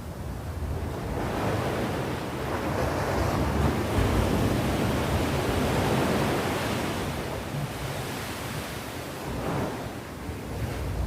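Sea waves washing onto the shore, a steady rush of surf that swells over a few seconds and then eases off.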